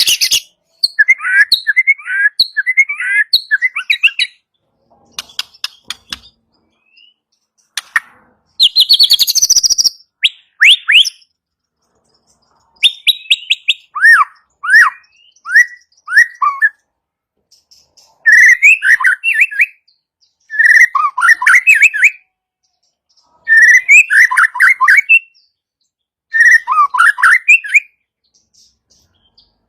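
White-rumped shama singing in short loud phrases of quick whistled and sliding notes, with pauses of a second or two between them. There are bursts of harsh ticking rattles in between.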